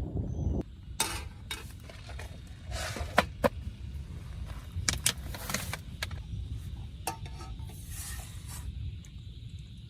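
Scattered sharp clinks, taps and rustles of small gear being handled, like cookware and utensils, over a steady low background rumble.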